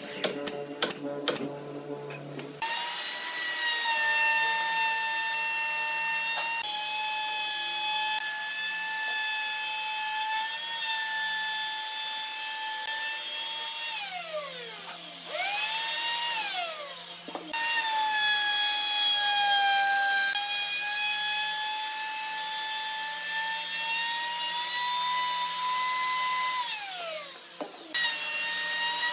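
A small high-speed electric power tool running with a steady whine. It spins down and starts up again about halfway through and once more near the end. A burst of rapid clicks comes just before it first starts.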